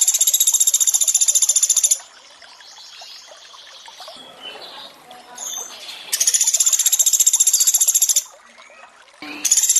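Pelatuk beras bird song: long, very fast high-pitched trills about two seconds each, three of them (at the start, about six seconds in, and near the end), over a steady trickle of running water.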